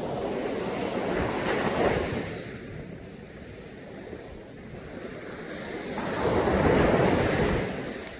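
Caribbean sea waves breaking and washing up on a beach. The surf swells and ebbs twice, peaking about two seconds in and again, a little louder, about seven seconds in.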